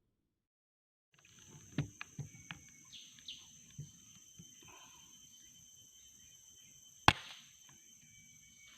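Forest ambience with insects buzzing steadily, a few short bird chirps and some light knocks. One sharp crack, the loudest sound, comes about seven seconds in.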